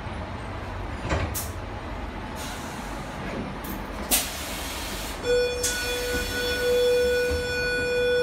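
Running noise heard inside a moving Tangara electric train: a steady rumble with a couple of brief sharp clicks or hisses. About five seconds in, a steady high tone starts, louder than everything else, and holds for about three seconds before it cuts off suddenly.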